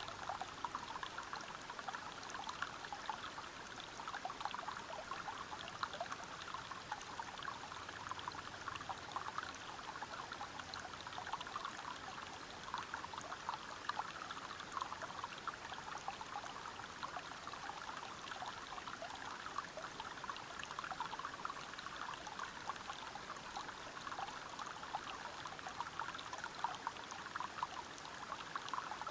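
River water flowing steadily over rocks, with a constant rush full of fine bubbling and small splashes.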